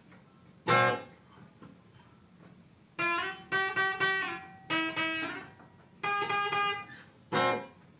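Guitar chords strummed as the opening of a song: a single chord near the start, then runs of strums from about three seconds in, each ringing out, with short pauses between.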